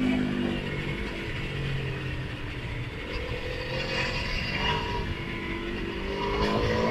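Motorcycle engine on the road: its pitch drops off at first, holds low for a couple of seconds, then rises steadily through the second half as the bike accelerates.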